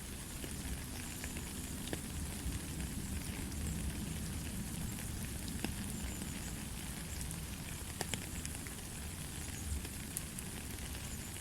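Steady light rain, an even hiss with scattered drops ticking close by.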